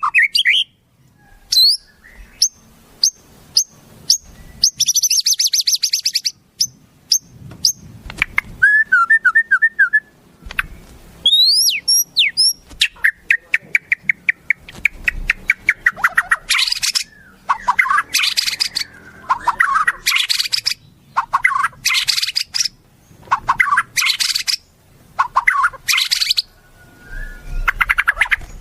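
Wild songbirds calling and singing: a varied run of quick high chirps and rapid trills, a few rising whistled notes about twelve seconds in, then bursts of high trilling repeated every second or two.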